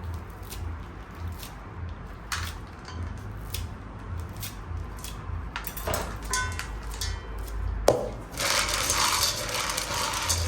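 Kitchen handling noises: scattered light clicks and knocks of dishes and utensils, then a sharper knock followed by about two seconds of hissing noise near the end.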